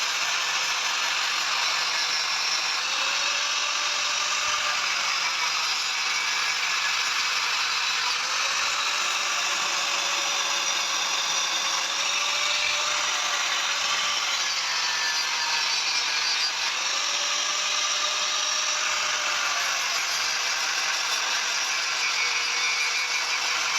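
A workshop machine running steadily, its pitch swelling and falling about every two seconds.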